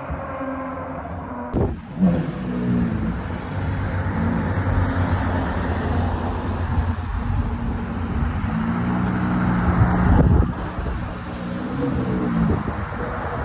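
Ferrari 812 Superfast's naturally aspirated V12 with a Novitec exhaust, running at low revs and blipped up and down several times. There is a sudden loud bang just under two seconds in and a louder rev around ten seconds in.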